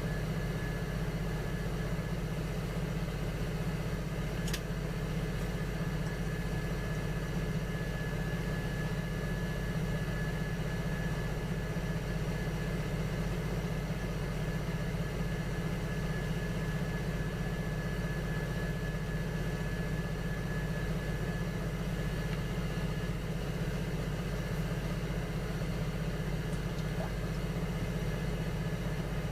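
Electric potter's wheel motor running at a steady speed: a low, even hum with a thin whine above it, and one faint click about four seconds in.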